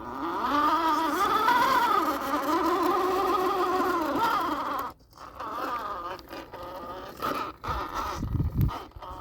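Axial SCX10 II RC crawler's electric motor and gearbox whining, the pitch rising and falling with the throttle, cutting off about five seconds in and then returning in shorter bursts. A low rumble comes near the end.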